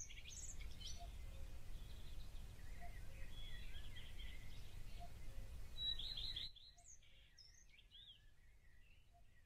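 Birdsong: scattered short chirps and trills over a low steady rumble, which drops away about six and a half seconds in, leaving the birds on their own.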